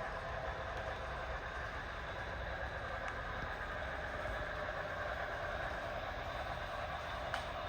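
HO scale model passenger train running on the layout, a steady rolling noise, with one short click near the end.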